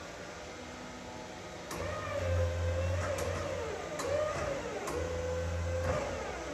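Battery-electric Flexi G4 forklift truck working. Its motor whine rises and falls in pitch for about four seconds, starting near the two-second mark. Under it, a low steady hum comes on twice and stops abruptly near the end.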